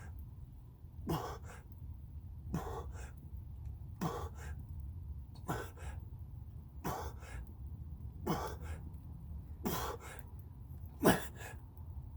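A man breathing hard in a steady rhythm while doing push-ups: a sharp exhale about every second and a half, each followed by a shorter breath, the loudest one near the end. A steady low rumble runs underneath.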